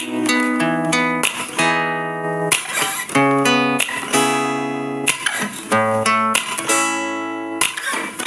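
Background music: acoustic guitar strumming a run of chords, one chord change about every half second to second.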